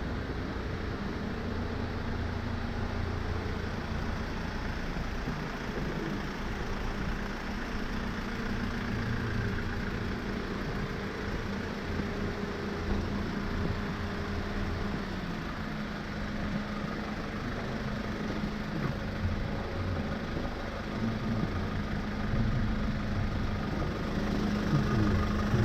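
2008 Hyundai Porter truck's engine idling steadily, getting louder with a brief rise in pitch near the end.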